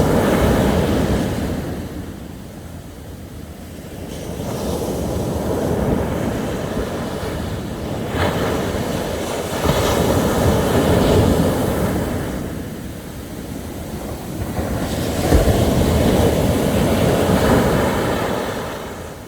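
Sea waves breaking and washing up a beach, the surf swelling and falling away about four times.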